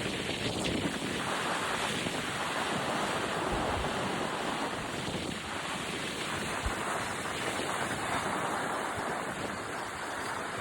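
Sea waves washing onto a beach, a steady surf noise that swells and eases every few seconds, with wind buffeting the microphone and a couple of low thumps from gusts.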